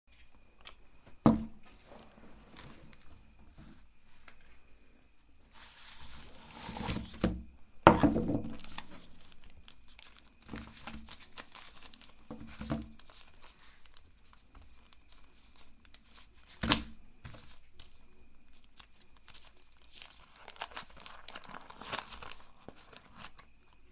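Plastic chocolate-bar wrappers crinkling and tearing as the bars are unwrapped, in irregular bursts with a few sharp knocks, loudest about 8 seconds in.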